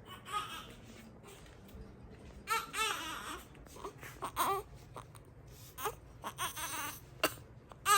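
Young infant crying in short, wavering cries that come several times, separated by brief pauses, which the mother takes for hunger.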